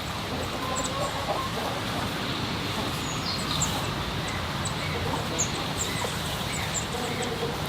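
Small birds chirping in short high notes over a steady background noise.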